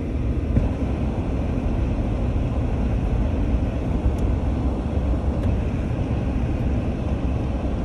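Steady road and engine noise inside a car's cabin as it drives slowly on a snow-covered road.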